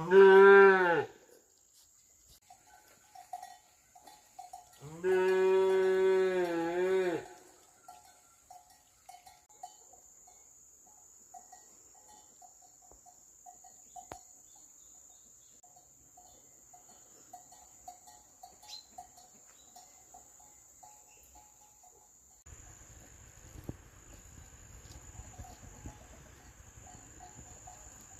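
A cow mooing twice: a short call right at the start and a longer, steadier call about five seconds in. A steady high chirring of crickets or other insects runs underneath.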